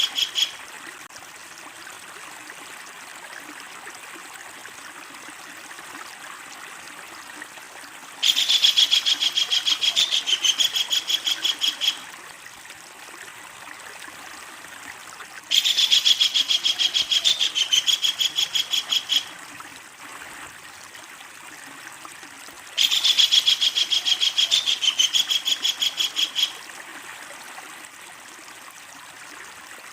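Kingfisher giving its long, loud chattering call three times, each bout a rapid string of sharp, evenly repeated notes lasting about three and a half seconds. A steady hiss of background noise fills the gaps.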